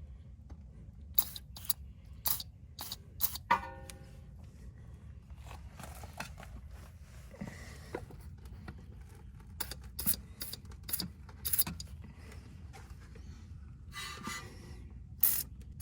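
Metal tools or parts clinking and scraping in a series of sharp clicks, one ringing briefly a little over three seconds in and several more close together near the end, over a steady low rumble.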